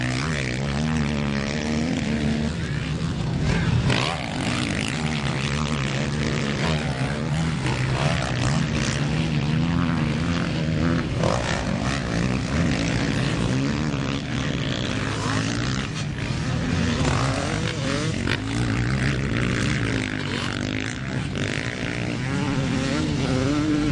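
Motocross motorcycle engines running continuously, their pitch repeatedly rising and falling as the throttle is opened and closed.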